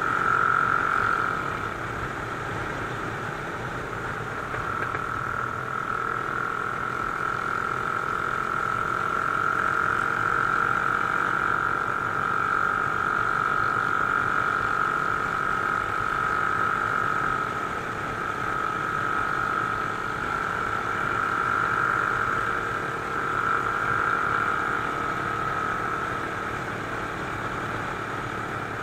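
Mash Cafe Racer 250's single-cylinder engine running steadily at cruising speed in fifth gear, heard from on board with wind rush, its note rising and falling slightly with the throttle. An oncoming car goes by briefly at the start.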